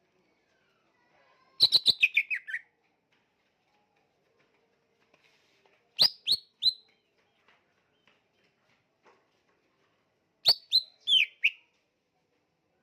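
Green leafbird (cucak ijo) from Borneo calling in three bouts of loud, sharp chirps, each note dropping in pitch: a quick run of about eight notes about two seconds in, three notes about six seconds in, and five notes near the end.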